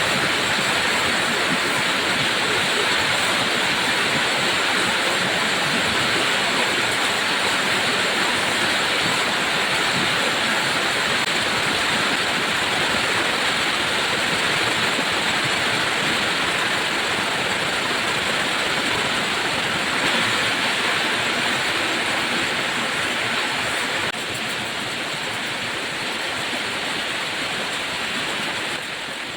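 Heavy rain falling, a loud steady rushing hiss, which drops a little in level twice, about three-quarters of the way through and again near the end.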